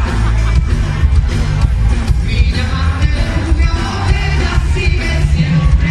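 Live pop-rock music: a band with heavy bass and a steady drum beat, with sung vocals over it.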